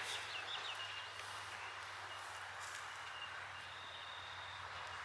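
A steady low engine hum under outdoor background noise, with a faint high thin tone coming and going.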